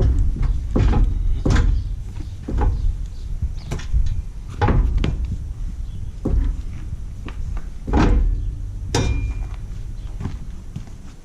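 A series of irregular knocks and clunks, about a dozen, some sharp and ringing briefly, over a steady low rumble.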